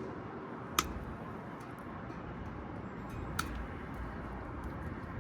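Two sharp clicks about two and a half seconds apart, the first the louder, over a steady low rumble.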